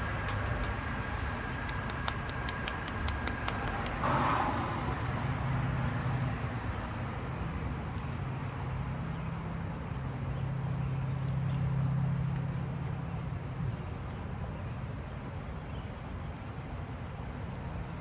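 Road traffic: motor vehicles passing on a nearby street, a low engine hum that swells around the middle and fades. For the first four seconds a thin steady high tone with rapid ticking runs over it, cutting off sharply.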